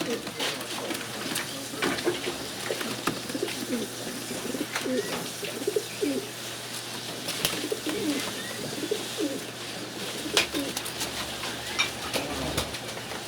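Many pigeons cooing together in an overlapping chorus, with scattered sharp clicks and knocks and a steady low hum under them.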